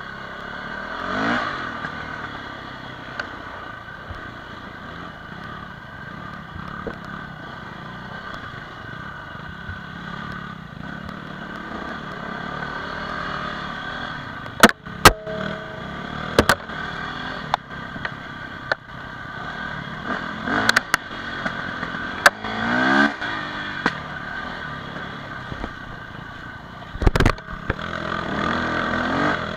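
Dirt bike engine running as it is ridden over rough ground, the revs rising sharply a few times. Several sharp knocks and clatters stand out about halfway through and again near the end.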